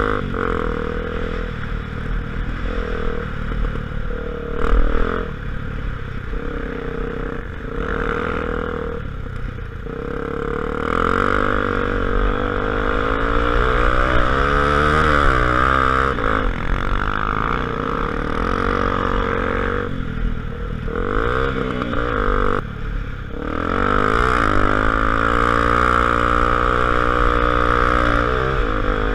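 Honda XR250 Tornado single-cylinder four-stroke motorcycle engine running on the move. Its pitch rises and falls as the throttle opens and closes, with a few brief drops in level, the longest about three-quarters of the way through.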